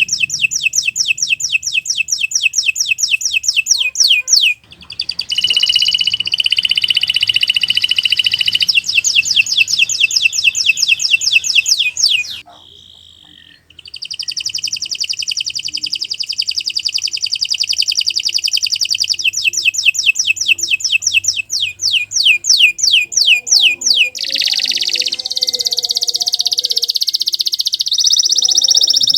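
Domestic canary in full song: long phrases made of fast runs of identical high notes, one phrase after another. The song breaks briefly about four and a half seconds in and stops for about a second near the middle.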